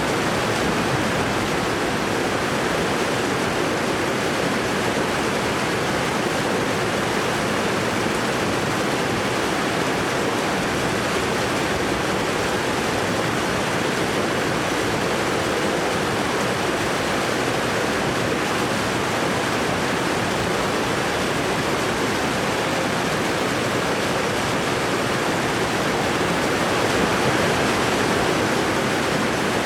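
Waterfall: water falling and rushing as a steady, even roar with no breaks.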